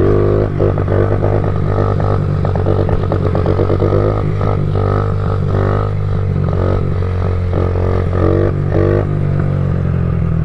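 Small single-cylinder pit bike engine running while being ridden, revving up several times with its pitch rising and falling back.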